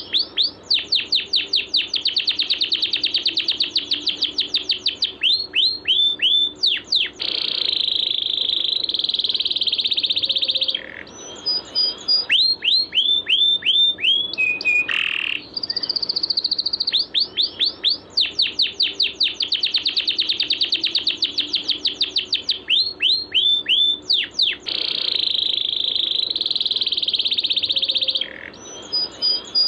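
Songbird song played as a masteran training recording: fast series of high whistled notes, each sweeping downward, run together into dense trills. The same passage repeats about every 16 seconds, a looped recording.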